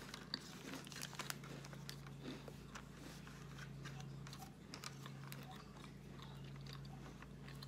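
Close-miked chewing of a crunchy snack with the mouth closed: crisp crunches come thick and fast at first, then thin out. A steady low hum runs underneath.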